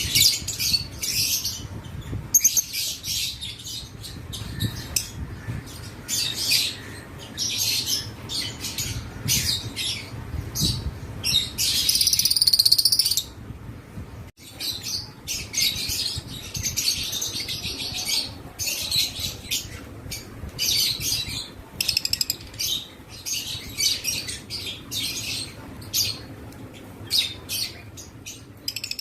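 Several lovebirds chirping and chattering non-stop in dense, overlapping high-pitched calls, with a longer, louder run of calls about twelve seconds in.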